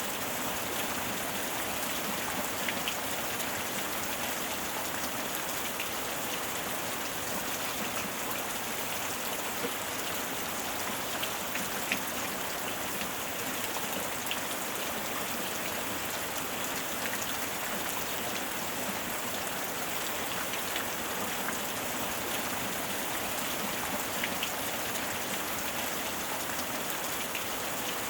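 Steady rain falling on surfaces, a constant hiss with scattered individual drop ticks.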